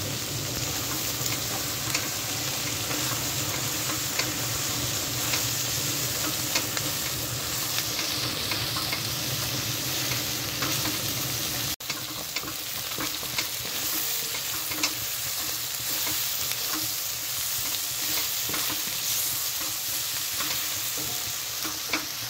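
Chicken pieces frying in a kadai with spices, sizzling steadily while a wooden spatula stirs and scrapes them, with scattered clicks of the spatula against the pan.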